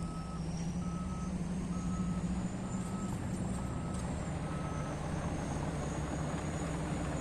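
Reverse alarm on heavy mining equipment beeping at a single pitch, about one beep a second, stopping about five seconds in. A steady diesel engine drone runs underneath.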